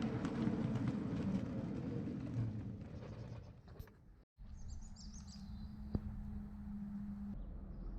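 A miniature ride-on train rumbling along the rails, fading away over the first four seconds. After a sudden cut, a few high bird chirps and a steady low hum, with a single click.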